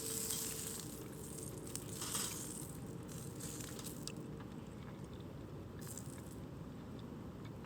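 Small campfire crackling and hissing with little pops. About four seconds in, the high crackle thins out, leaving a low steady rumble and an occasional pop.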